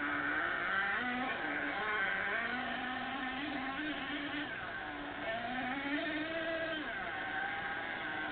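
Nitro engine of a Savage XL remote-control truck running, its pitch rising and falling again and again as the throttle is worked while the truck is driven back and forth.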